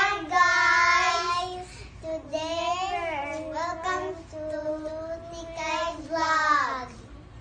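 A child singing alone in a high voice, holding long notes that slide up and down, loudest at the start and again near the end before stopping about a second before the end.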